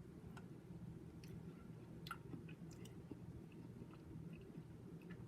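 A person chewing a mouthful of warm apple pie with vanilla ice cream, heard as faint, scattered mouth clicks over a low steady hum.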